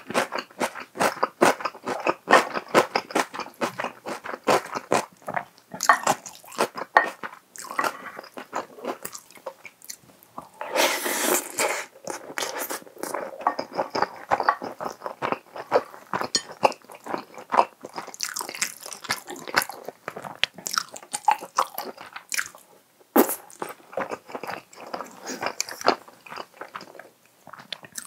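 Close-miked chewing and biting of a soy-sauce chicken-and-egg rice bowl, with wet mouth sounds and small clicks, and a spoon scraping rice off a ceramic plate partway through.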